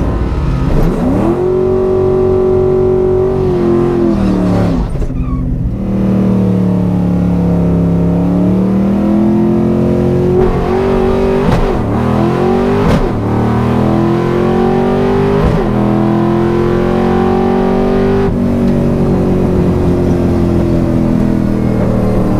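Fox-body Mustang's 5.0 V8 on a drag pass, heard from inside the car: revs held steady, a drop, then the engine pulls hard with several short dips in pitch at the gear changes. Near the end it levels off and then winds down as the throttle comes off.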